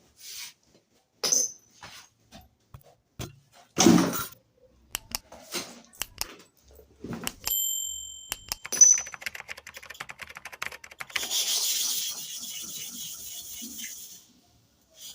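Clicks and knocks of a clipper blade being handled and set against a sharpening stone. From about eleven seconds in comes a steady scraping hiss of the blade being rubbed on the stone, which stops briefly near the end and then resumes.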